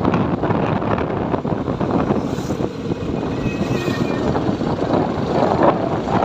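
Motorcycle on the move: steady wind rush on the microphone mixed with engine and road noise.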